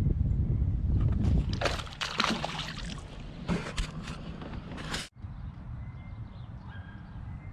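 Water splashing and sloshing around a fishing kayak in irregular bursts over a low rumble of wind on the microphone. The sound cuts off abruptly about five seconds in, leaving a quieter steady background.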